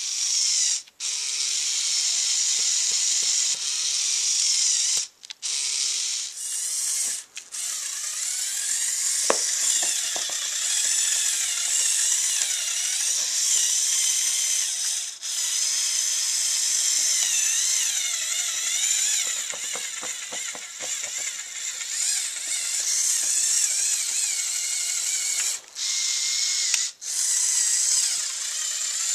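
Small electric motors and plastic gears of a remote-controlled Lego Technic trial truck whining as it drives, the pitch wavering up and down with load. The whine cuts out briefly several times as the motors stop and restart, with stretches of rapid clicking from the gears.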